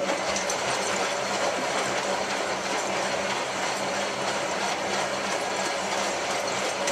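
Hotpoint 9534A washing machine running during its rinse, a steady mechanical noise with a constant low hum that starts suddenly.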